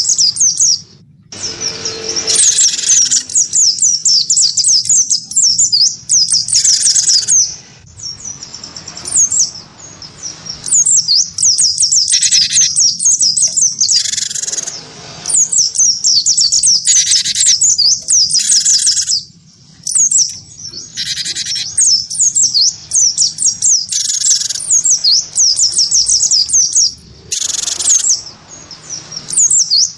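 Cage birds singing against each other: a cinereous tit (gelatik batu) and a white-eye (pleci). An unbroken stream of rapid high twittering is broken every few seconds by short bursts of lower, harsher notes.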